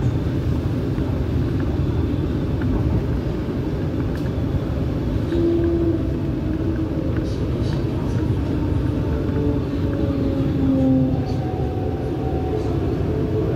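MTR R-Train electric multiple unit running on the East Rail Line: a steady rumble of wheels on rail, with faint whining traction-motor tones that drift slowly lower in pitch and a few light clicks.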